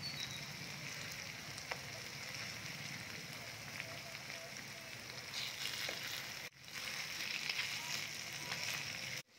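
Fish pieces in onion masala sizzling steadily in oil in a nonstick frying pan while a spatula stirs them, with a few faint taps and scrapes of the spatula.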